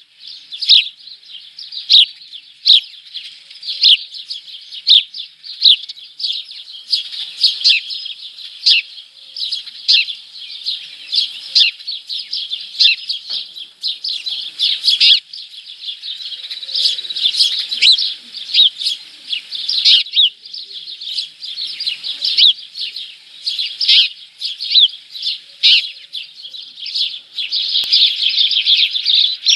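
Small birds at a feeder chirping, a steady run of short, sharp chirps several times a second that thickens into denser chatter near the end.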